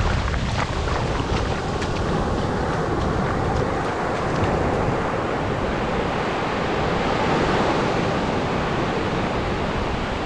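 Atlantic surf breaking and washing up the beach: a steady rush that swells in the middle, with wind rumbling on the microphone.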